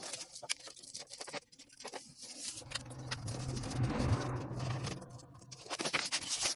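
Hand tools working on copper refrigerant line flare fittings: repeated clicks and metallic scraping. In the middle a low steady hum from a small motor runs for about three seconds.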